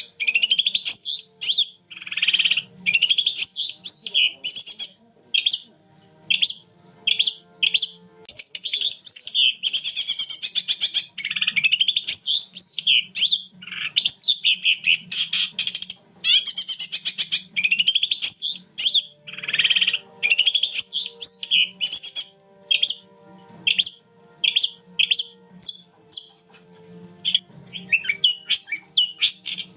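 Long-tailed shrike (cendet) singing on and on in rapid, varied phrases of chirps and trills, with only short pauses between them.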